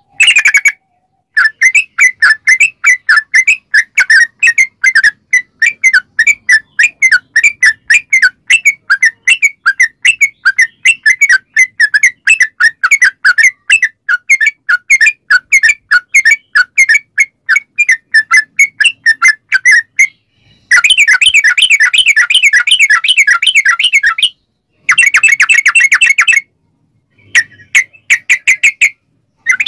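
Yellow-vented bulbul (trucukan) singing a long run of rapid, bubbly repeated notes, a few per second, denser in the last third. The song breaks off abruptly into a few short silences.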